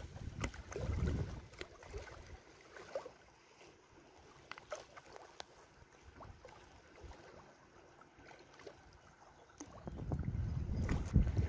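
Wind buffeting the microphone in low rumbling gusts, once about a second in and again near the end. Between the gusts are scattered small clicks and splashes of water at the lake's edge.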